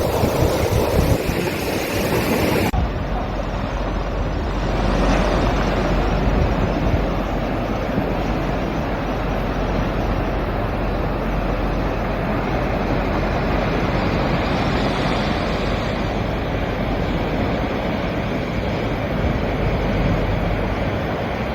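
Sea waves washing against rocks with wind, a steady rushing noise that swells and eases. About three seconds in the recording changes abruptly and the hiss turns duller.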